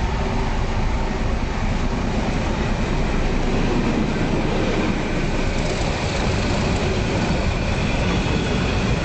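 Surma Mail passenger train running on the line: a steady, continuous rumble of wheels on rails, with faint high tones coming in about halfway through.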